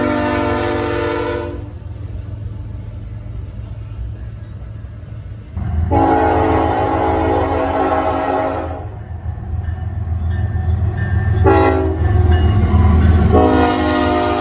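Diesel locomotive's multi-chime air horn sounding the grade-crossing signal of long, long, short, long, over the steady rumble of the train: a long blast ends about a second and a half in, a second long blast follows, then a brief one, then a final long blast begins near the end. The pattern warns of a road crossing ahead.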